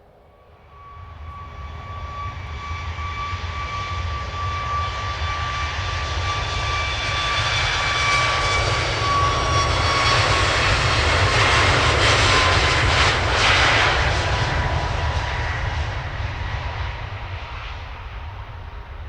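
Jet airliner's engines passing by. The sound builds steadily, is loudest about two-thirds of the way through, then fades, with a high whine that dips slightly in pitch as the aircraft passes.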